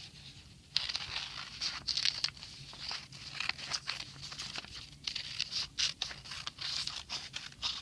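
Scissors cutting paper: a run of quick snips that begins about a second in and keeps going as the paper is turned.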